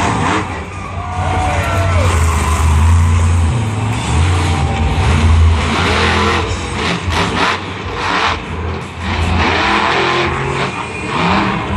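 Monster truck's supercharged V8 engine revving up and down repeatedly at high power, with several sharp bangs in the middle.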